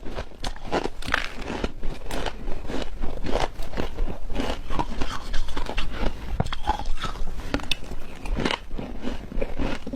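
Ice being bitten and chewed close to the microphone: a dense run of irregular sharp cracks and crunches.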